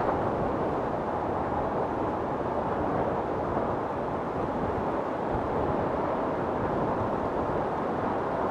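Wind storm blowing steadily: a dense, even rushing noise, deep rather than hissy, with no thunder claps.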